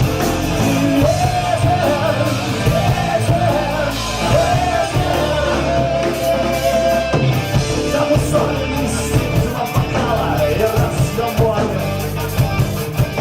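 Rock band playing live and loud, with a wavering melody line carried above the full band.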